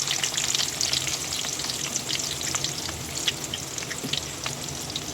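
Sliced onions sizzling and crackling in hot oil in a kadhai (wok-like pan), with scattered spattering pops.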